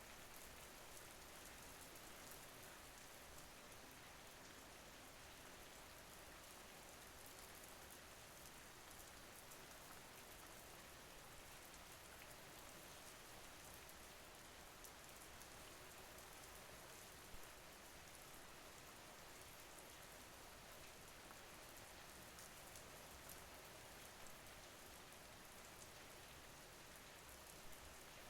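Faint, steady rain falling on a surface, an even hiss with the patter of individual drops, and one slightly louder drop about two-thirds of the way through.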